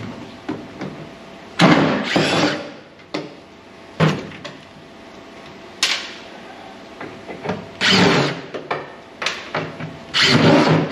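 Sharp knocks and clanks with several short rasping bursts of tool work on the truck cab's rusty sheet metal, starting and stopping.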